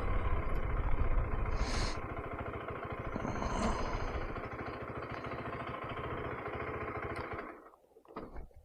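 KTM 390 Adventure's single-cylinder engine running at low speed while parking, settling to a steady idle about two seconds in, then switched off near the end. A few faint clicks follow.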